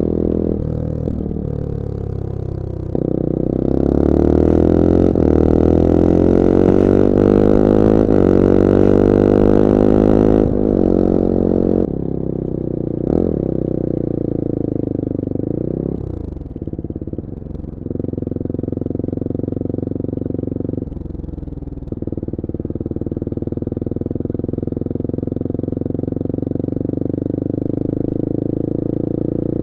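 Bullit Hero 250's CF Moto 250cc four-stroke engine running under way, pulling harder and rising in pitch a few seconds in, then easing off. A few brief dips in the engine note follow, like gear changes, before it settles to a steady cruise.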